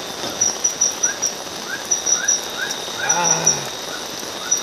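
Night-time forest insect chorus: a steady high whine with quick repeated high chirps, and a short rising chirp repeating about twice a second. A little past the middle comes a brief wavering, whine-like call.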